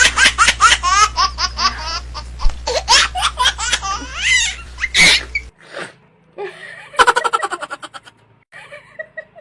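Loud, rapid laughter that cuts off abruptly about five and a half seconds in, followed by softer scattered laughs and a quick run of short laughs about seven seconds in.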